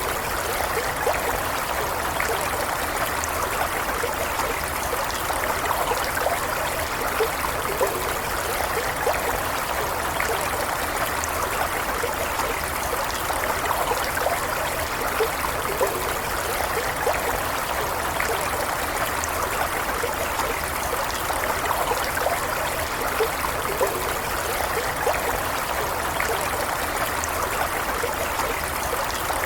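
A small stream flowing steadily over stones, an even rush of water with many small trickles and splashes.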